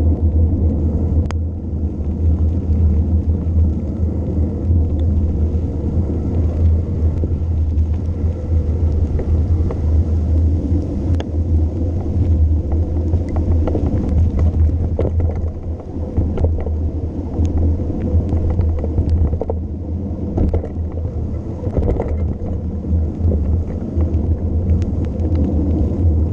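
Steady low wind rumble on the camera's microphone during a mountain-bike descent, with scattered clicks and knocks from the bike over the road.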